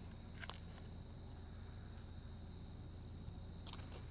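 Quiet background at night: a steady low hum with a thin high-pitched steady tone and a faint, evenly pulsing high trill above it, and two soft clicks, one about half a second in and one near the end.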